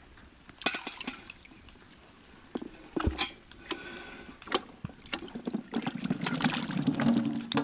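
Baby potatoes being tipped into a pot of water, splashing, with several sharp knocks and then a longer busy run of splashing near the end.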